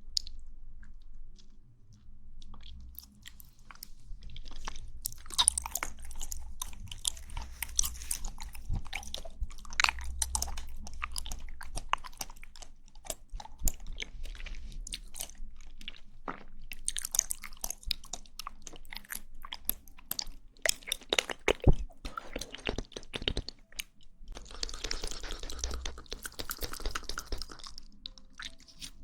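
Close-miked mouth sounds of someone eating jelly: wet squishing, sucking and smacking clicks from chewing, in irregular clusters with a quieter pause a couple of seconds in.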